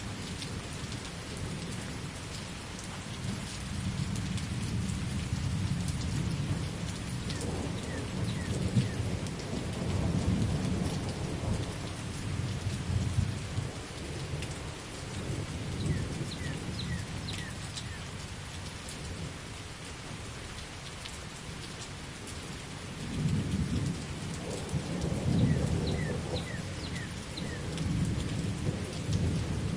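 Steady rain falling with rolling thunder. The low rumbles swell through much of the first half and again near the end.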